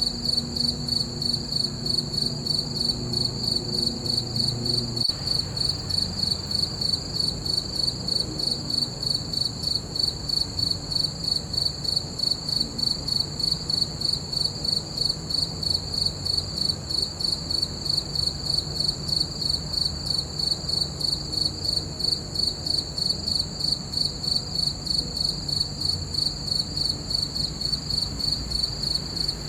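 Crickets chirping in a steady, even rhythm of high-pitched pulses, with a faint low rumble underneath.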